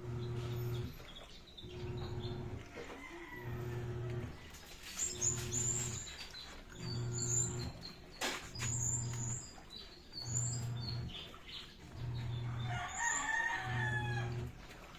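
Haier automatic washing machine's motor agitating the wash in short pulses, a low hum under a second long repeating about every second and a half to two seconds. A rooster crows and chickens cluck and chirp over it, with one sharp click about eight seconds in.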